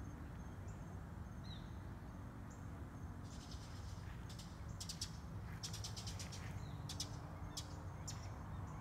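Birds chirping: a few faint high peeps at first, then quick clusters of sharp chirps from about a third of the way in, over a low steady rumble.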